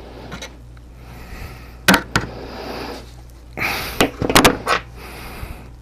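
Handling noise from working on a 3D-printed plastic helmet: two sharp clicks about two seconds in, then a brief scrape and a quick run of knocks and rubbing around the fourth and fifth seconds, over a low steady hum.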